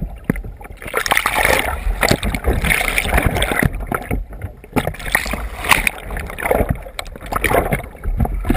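Water splashing and sloshing around a kayak, with irregular knocks and bumps throughout.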